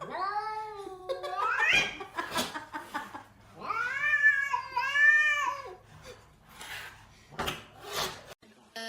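A cat meowing in long, drawn-out calls: a first one whose pitch dips and then rises at its end, then two arched calls in quick succession in the middle. A few sharp knocks follow near the end.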